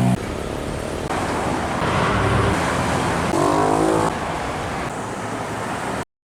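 Road traffic: trucks and other vehicles passing on a busy road, a steady rumble of engines and tyres, with a brief pitched engine or horn-like tone around three and a half seconds in. The sound cuts off suddenly just before the end.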